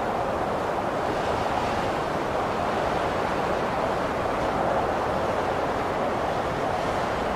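Blizzard wind: a steady, even rush of wind noise with no gusts or breaks.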